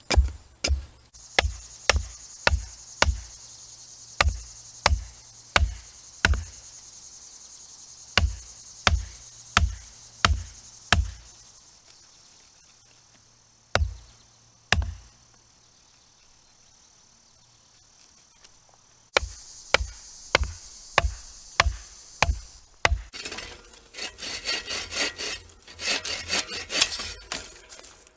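Chopping blows into wood, about two a second in runs with a pause between, then quick rhythmic saw strokes through wood near the end. Insects buzz steadily behind.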